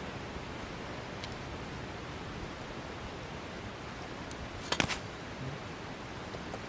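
Wood fire crackling: scattered sharp pops over a steady hiss, with the loudest crack a little under five seconds in.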